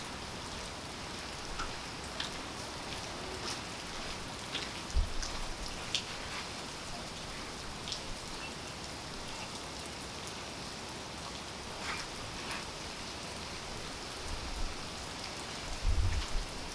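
Steady rain falling, an even hiss with individual drops ticking sharply here and there. A few dull low thuds come about five seconds in and again near the end.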